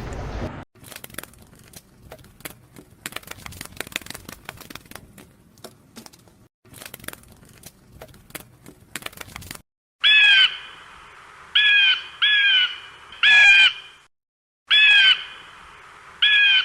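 A bird's calls: about six short, loud, harsh calls in the second half, each bending slightly in pitch. They follow several seconds of scattered clicking and rustling.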